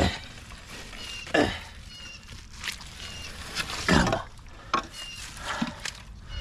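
Muddy water sloshing and splashing in a flooded dig hole: three loud splashes, at the start, about a second and a half in and about four seconds in, then smaller ones. Short high chirps repeat in the background.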